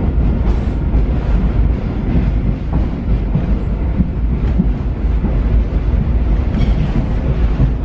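Paris Métro Line 7bis train running in the tunnel: a steady, loud rumble of the car's steel wheels on the rails, with occasional faint clicks.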